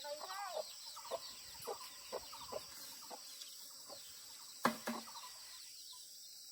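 Chickens clucking in a run of short calls over the first few seconds, then a single sharp knock about two-thirds of the way through.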